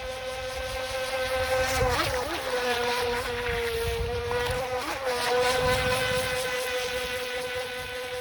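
Electric motor of a Haiboxing Surge X03 RC speedboat whining steadily as the boat runs at speed on the water. The pitch dips briefly twice, about two seconds in and again about five seconds in.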